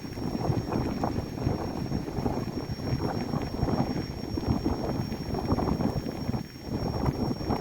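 Gusting outdoor noise of wind on the microphone by the sea, rising and falling in strength, with a faint steady high-pitched whine.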